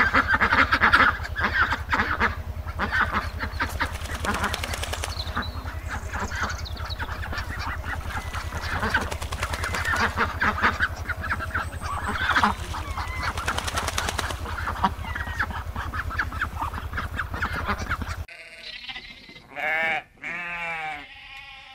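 A large flock of domestic waterfowl honking and calling all at once over a low steady hum. About 18 seconds in it cuts to a different animal giving two short pitched calls.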